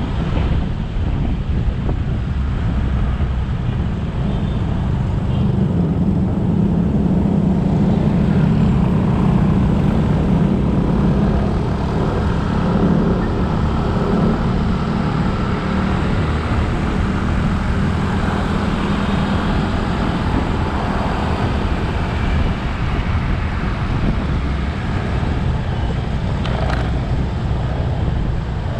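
Motorcycle engine running at riding speed under steady road and traffic noise, heard from the rider's own bike; its low drone swells for several seconds about a fifth of the way in.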